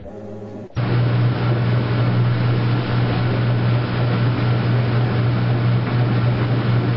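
Washing machine running: a loud, steady low hum over a rushing noise starts suddenly under a second in and holds.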